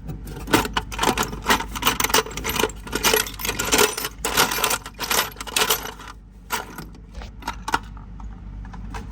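Loose metal nuts clinking and rattling against each other as a hand rummages through a stash of hardware, a dense jingle that thins out to a few single clicks about six seconds in.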